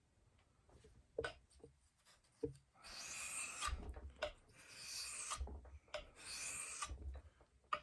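A knife blade drawn across a wet Japanese whetstone in three long scraping strokes about a second and a half apart, after two light clicks.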